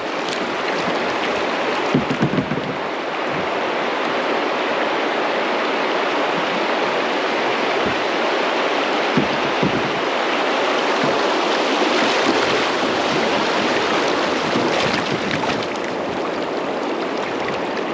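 Rushing whitewater of creek rapids, a steady loud wash of water noise, with a few short knocks about two seconds in and again about halfway through.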